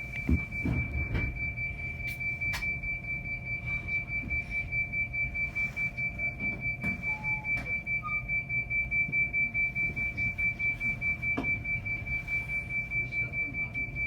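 Train protection radio (bōgo musen) emergency alarm sounding on a JR West train: a steady high tone pulsing about three or four times a second. It signals that the driver has made an emergency stop and is sending the stop signal to nearby trains. Low rumbling and a few knocks in the first second or so.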